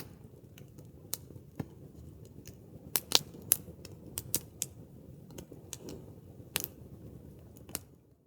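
A run of irregular sharp clicks and snaps, about a dozen over several seconds with the loudest in the middle, over a faint low background hiss. They stop just before the end.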